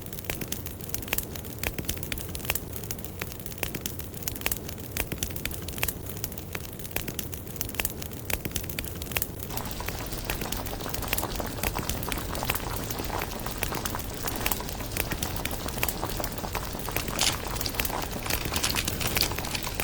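Pot of instant noodles boiling, with a steady crackle and many small pops; it grows fuller and a little louder about halfway through.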